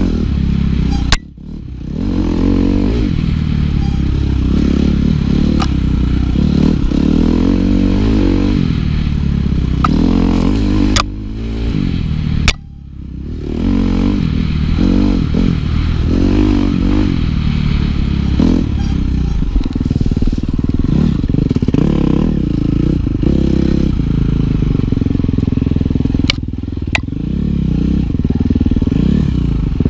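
KTM 350 XC-F four-stroke dirt bike engine under riding load, its pitch rising and falling as the throttle is opened and rolled off. The engine note drops away briefly about a second in and again near the middle. A few sharp clicks are heard over it.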